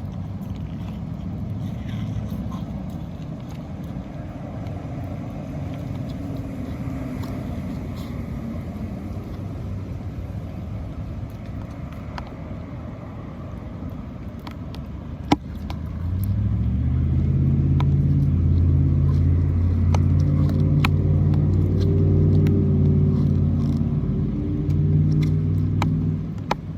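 A low rumble, then about sixteen seconds in a motor vehicle's engine close by comes in, running at a steady low pitch and much louder, and fades out just before the end. A single sharp knock comes just before the engine.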